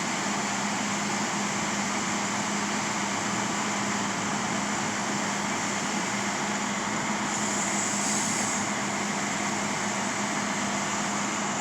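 Steady drone of engines running, with a constant low hum and no change in pace.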